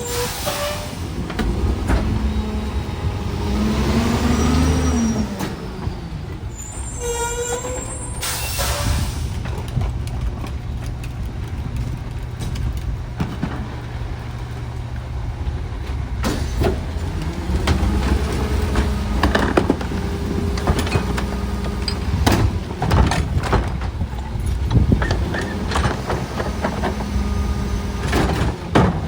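Garbage truck running, with air brake hisses about half a second and eight seconds in and scattered clanks and knocks in the second half.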